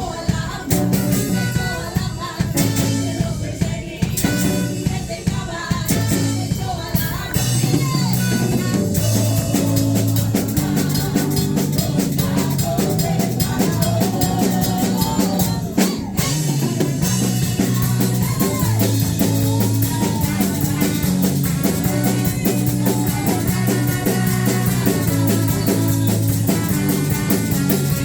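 A band playing with drums, bass and a singing voice, a steady beat that fills out after the first several seconds.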